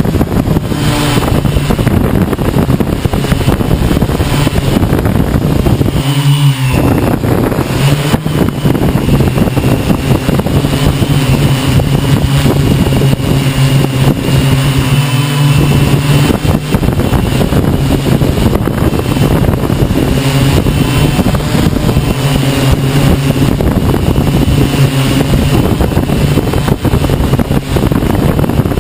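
Hexacopter's electric motors and propellers droning in a steady hum with a wavering high whine above it, while strong wind buffets the microphone.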